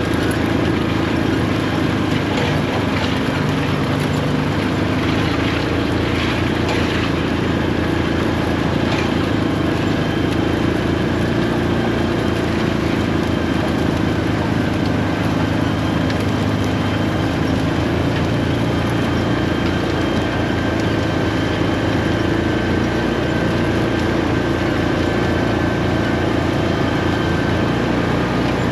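Large farm tractor's diesel engine running steadily under load, with a constant hum and no change in speed.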